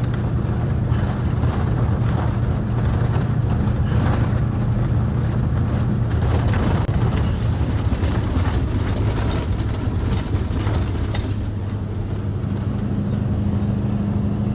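A truck engine running steadily with a low hum, with scattered clicks and knocks over it.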